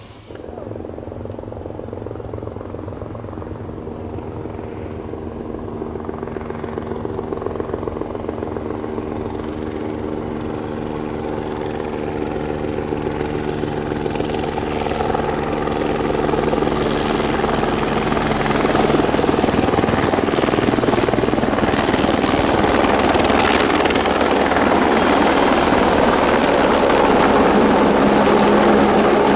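Aerospatiale AS355F2 Ecureuil 2 twin-turbine helicopter running, its rotor sound growing steadily louder. In the second half a high turbine whine rises slowly in pitch.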